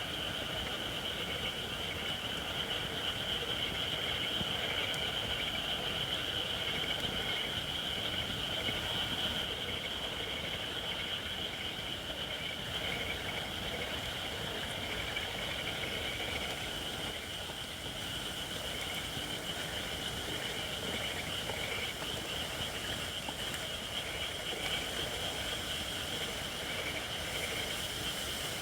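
Campfire of white oak firewood burning, crackling steadily. The wood is not yet dry enough, so it hisses. A constant high-pitched trill rides above the fire.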